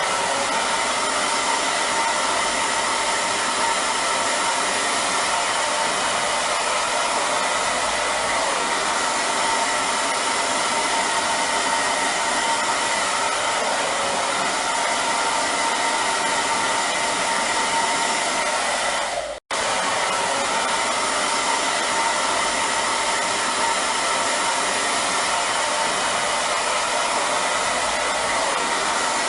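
Hair dryer running steadily, a dense airy whoosh with a faint whine in it. It drops out for a split second about two-thirds of the way through, then carries on unchanged.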